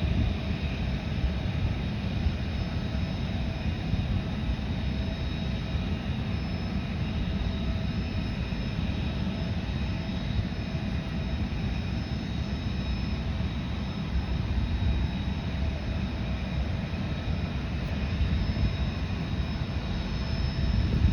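Jet aircraft engines running steadily: a low rumble with a steady high whine over it.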